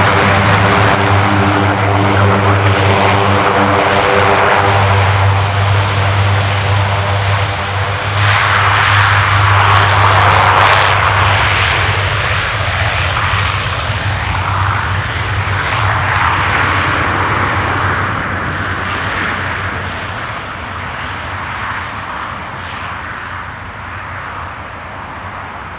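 A propeller-driven airplane passing close, with a steady low propeller drone and overtones at first. It is loudest about ten seconds in, then fades steadily as it moves away.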